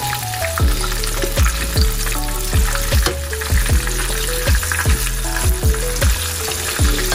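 Breaded fallfish fillets shallow-frying in hot oil in a skillet, a steady sizzle. Background music with a thumping beat about twice a second and a short repeating melody plays over it.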